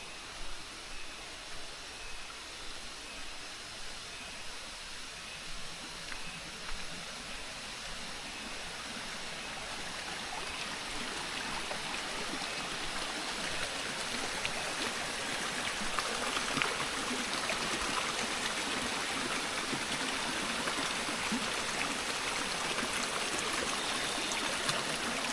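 Running water of a jungle stream, a steady rushing that grows louder over the first half and then holds. In the first several seconds, footsteps on the trail thud about twice a second under it.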